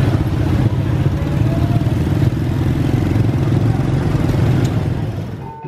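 A small engine running steadily, like a motorcycle, that fades out near the end.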